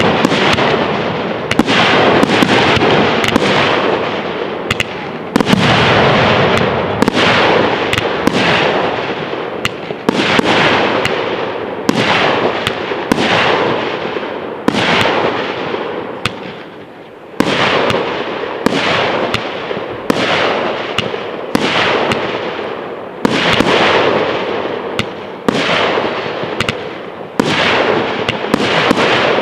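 Fireworks display: aerial shells bursting in quick succession, about one or two bangs a second, each trailing off in a crackling hiss, with a brief lull about halfway through.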